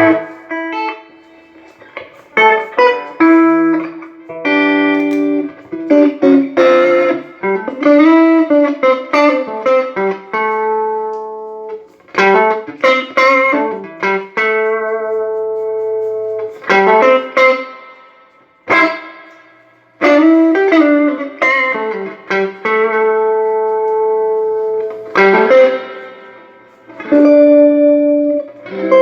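Electric guitar played through a late-1980s Peavey Deuce VT tube amp, just repaired and working again: phrases of single notes and chords with several string bends, separated by short pauses.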